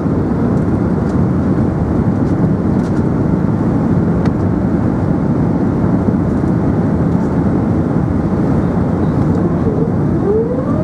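Steady rumble of cabin noise inside an Airbus A380, with a rising whine starting in the last second.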